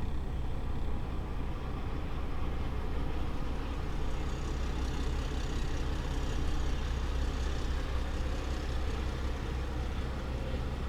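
Kenworth T660's Paccar MX-13 diesel engine running steadily, a heavy low drone with a constant wash of noise over it.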